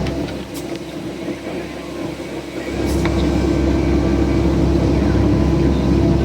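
CAT excavator's diesel engine running steadily with its hydraulics working the grapplesaw; the engine note drops for the first couple of seconds, then picks back up under load a little under three seconds in, with a few sharp knocks over it.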